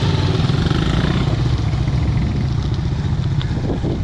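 Wind buffeting an action camera's microphone during a mountain bike ride, a loud steady low rumble with the rattle of the bike over rough, muddy trail.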